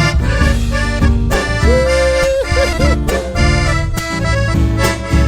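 Accordion playing the lead melody of an Argentine folk song over a steady bass and rhythmic accompaniment, with a long held note ornamented by quick trills about two seconds in.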